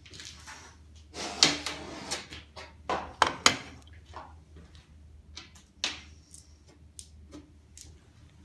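Workshop handling noise: a run of sharp knocks and clatters as hard parts are moved and set down, densest between about one and three and a half seconds in, then two single knocks later on.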